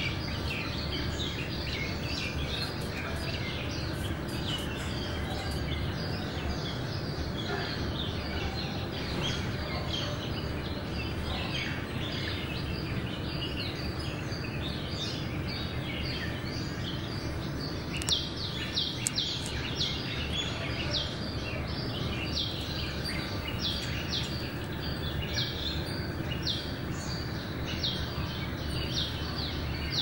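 Small birds chirping over a steady background of outdoor noise. The short chirps come thick and fast in the second half, with a few sharp ticks among them.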